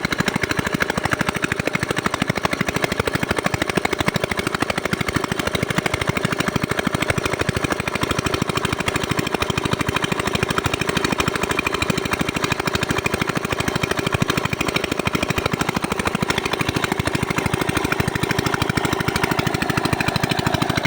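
Small 5 hp single-cylinder diesel engine running steadily while driving a water pump, with a rapid, even knocking beat.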